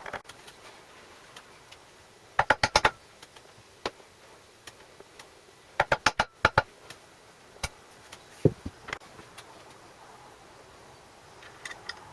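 Sharp taps and clicks from hand work in a workshop: two quick runs of four or five strikes a few seconds apart, with scattered single clicks and a duller knock about two-thirds of the way in.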